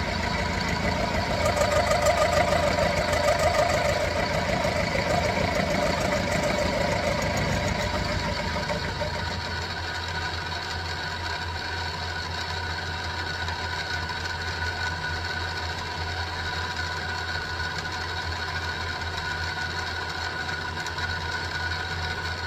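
Benchtop mini milling machine running, its spindle and motor humming while the cutter takes a pass through 1045 steel. The cutting sound is heavier for the first nine seconds or so, then the machine runs lighter and steady.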